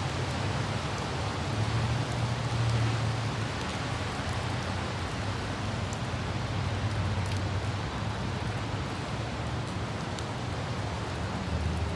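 Light rain hissing steadily with the low rumble of a car driving on a wet city road, the rumble swelling and easing a couple of times, and a few faint droplet ticks.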